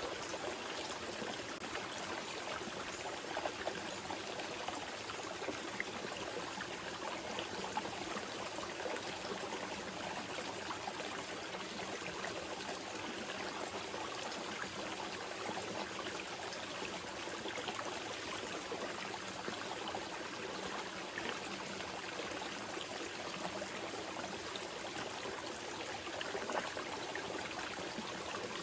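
Small mountain river flowing gently over stones, a steady babble of running water with small splashes and trickles.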